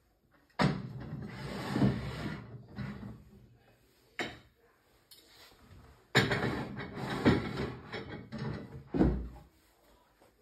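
Belongings being put away: a cupboard or drawer opened and handled with clattering, a sharp knock about four seconds in, more clattering, and a dull thump near the end as a door or item is closed or set down.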